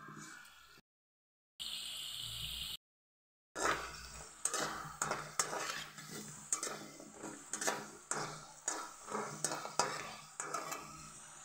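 Wheat-flour snacks sizzling as they fry in hot oil in a kadai, while a spoon stirs and turns them, clinking against the pan about twice a second. The audio cuts out briefly twice in the first few seconds before the steady stirring begins.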